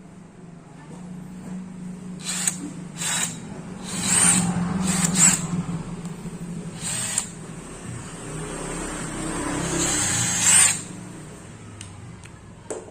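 DeWalt DCD796 18V brushless cordless hammer drill run in several short trigger bursts, then a longer run of about three seconds that builds up and stops suddenly.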